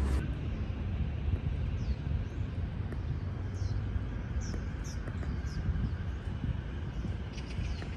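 Outdoor ambience: several short, high, falling bird chirps over a few seconds in the middle, over a steady low rumble, with a few light clicks near the end.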